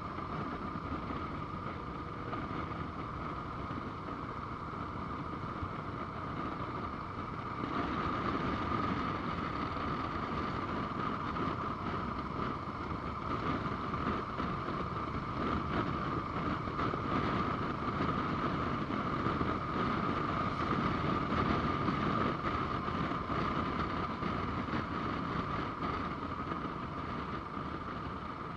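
Motorcycle on the move: steady engine rumble mixed with wind noise on the microphone, getting louder about eight seconds in.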